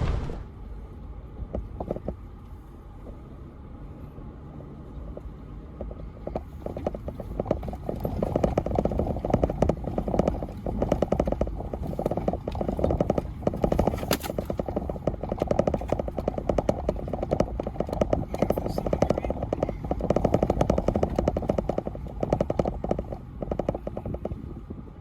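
Off-road tyres crunching and popping over loose rock as a 4Runner crawls a steep trail, over a low steady rumble. The dense crackle of small rock clicks builds a few seconds in and carries on thickly.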